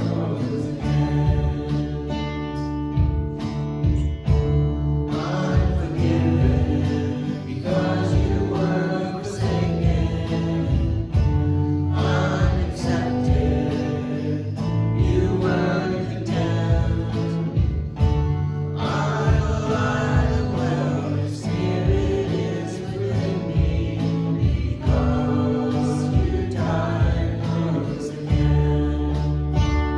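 Contemporary worship song played live by a band with guitar, with singers and congregation singing together.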